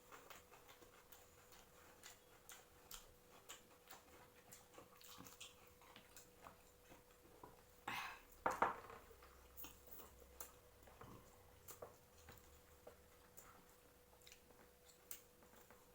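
Quiet eating: faint, irregular clicks and taps of hands and food on plates, with a slightly louder clatter about eight seconds in, over a faint steady hum.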